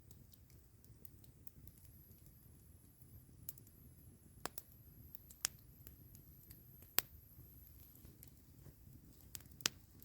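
Campfire wood crackling: a handful of sharp, irregular pops over a low steady rumble, with the loudest pops about halfway through and near the end.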